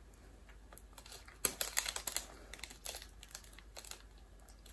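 Crunchy chewing of a dried edible cricket: a run of irregular crisp crackles, starting about a second and a half in and dying away near four seconds.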